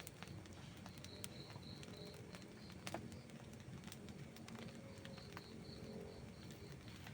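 Outdoor wood campfire burning, with scattered small crackles and a sharper pop about three seconds in. A faint, high, pulsing trill comes and goes twice in the background.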